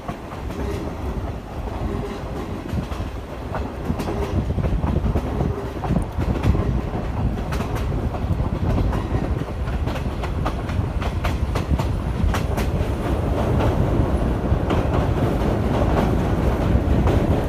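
Old-style passenger coach running on the rails, heard at its open window: a steady rumble of the wheels with the clack of rail joints, growing louder in the last few seconds.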